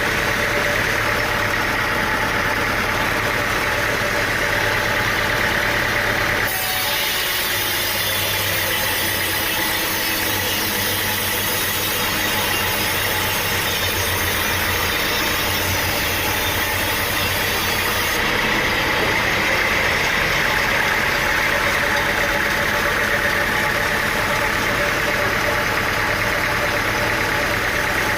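A motor running steadily, with the sound changing abruptly about six seconds in and again near eighteen seconds.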